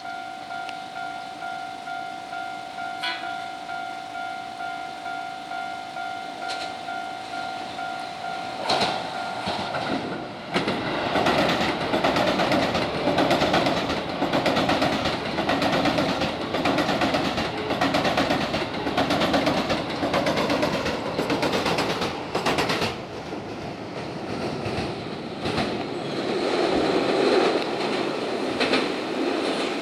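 Keio Line electric train running through a ground-level station, its wheels clattering rhythmically over the rail joints. Before it, a steady pulsing ringing tone that stops about nine seconds in as the train noise takes over.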